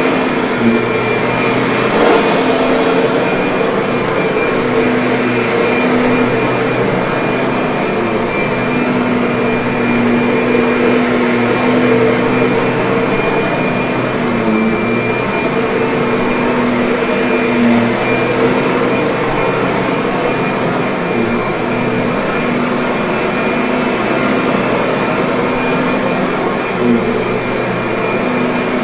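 Kirby vacuum cleaner running steadily: a constant motor hum over a rush of air, its pitch shifting slightly now and then.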